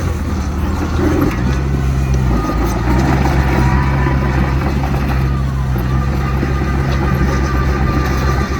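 Heavy diesel earthmoving machinery running steadily: a low engine drone with a faint high whine over it.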